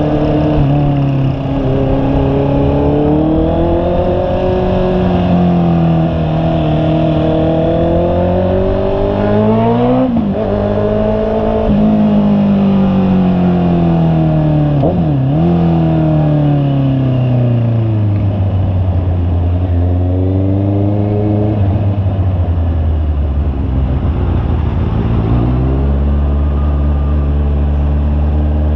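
Honda CB650R's inline-four engine running under way, its revs rising and falling through the gears with two quick gear changes about a third and halfway through. It then slows steadily and settles to a steady idle near the end.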